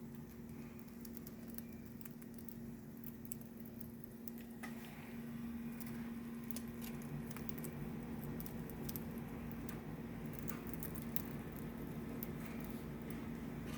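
Pet budgies moving about, making many small sharp clicks and scratches that grow busier about four seconds in, over a steady low hum.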